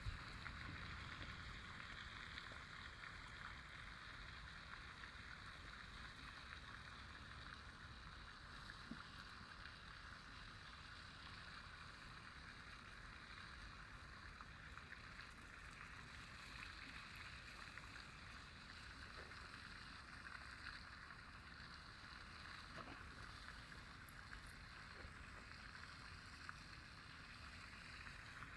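Faint, steady outdoor ambience: an even hiss over a low rumble, with no distinct events.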